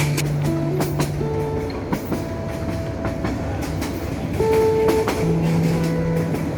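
Passenger train running on the rails: a steady rumble and hiss with scattered sharp rail clicks, under background music with long held notes.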